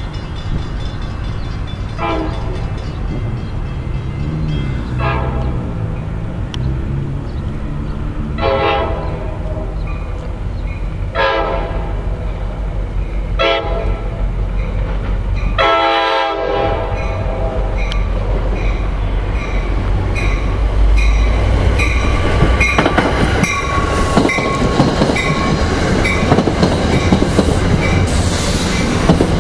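NJ Transit push-pull commuter train sounding its horn in a series of separate blasts, one every two to three seconds, as it approaches. After the last blast its wheels rumble and click steadily over the rail joints as it rolls in, getting louder toward the end.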